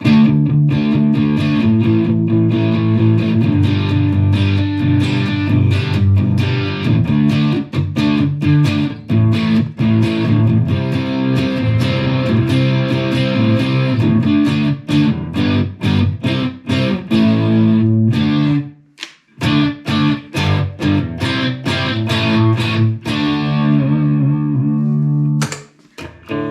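Electric Stratocaster played through a Fender Mustang GTX100 amplifier on its "Southern Cal Punk" preset: distorted, strummed chords with many quick picked attacks. The playing stops briefly about two-thirds of the way through, then resumes.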